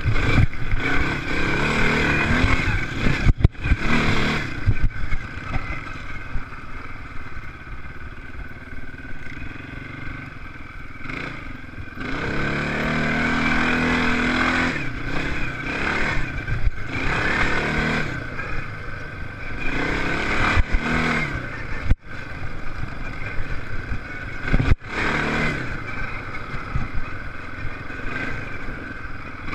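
Motocross bikes racing past one after another, their engines revving up and down in repeated swells as each one goes by.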